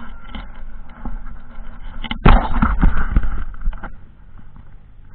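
Off-road motorcycle engine idling low, then about two seconds in a sharp burst of throttle with rapid popping exhaust that lasts under two seconds before dropping back.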